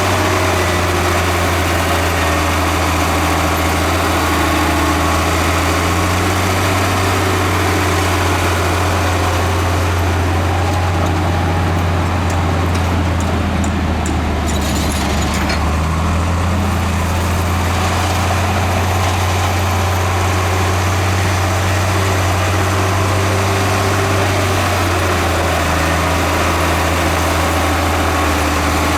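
Heavy diesel engine of earthmoving equipment running steadily, its low note shifting slightly up and down a few times.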